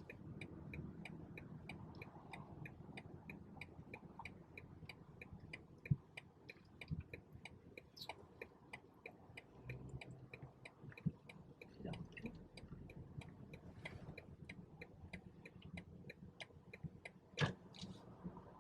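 A car's turn-signal indicator ticking steadily and faintly, about two to three ticks a second, with a few soft thumps over it, the loudest near the end.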